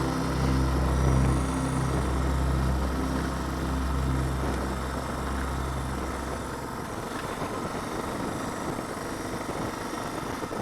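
Suzuki DR650's single-cylinder engine idling steadily. About six and a half seconds in, the even note gives way to a rougher, less steady low engine sound.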